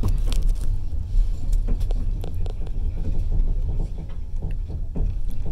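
Passenger train running, heard from on board: a steady low rumble with frequent irregular clicks and rattles.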